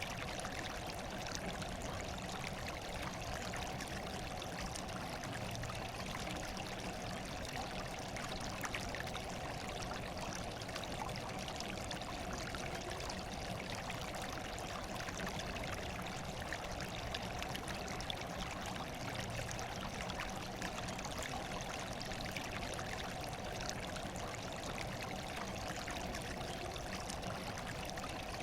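Running water flowing and trickling at a steady, even level.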